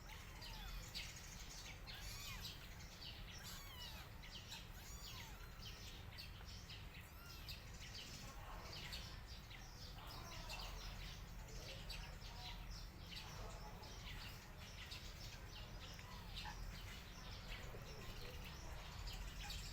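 Small birds chirping busily, many quick overlapping chirps and short glides, over a steady low hum.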